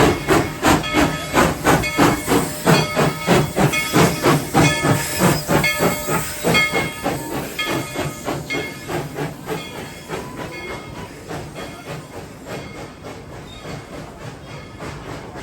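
Narrow-gauge steam locomotive #190 working, its exhaust chuffing at about three beats a second with steam hissing. The chuffs fade steadily as it moves away.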